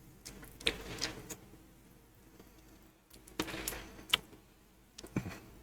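Faint, irregular small clicks and crackles of strawberry Pop Rocks candy, a few at a time with short pauses between.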